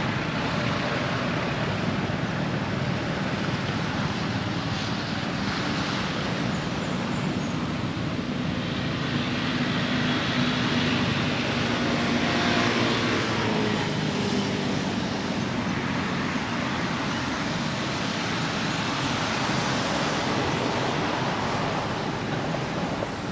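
Steady rushing road-traffic noise, with a passing vehicle's engine rising and falling in pitch around the middle.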